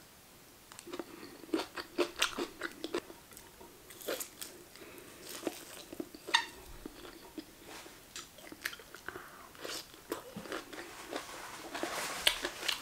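A person biting and chewing food close to the microphone: a bite into a leafy green vegetable, then steady chewing made up of many small irregular clicks and crunches.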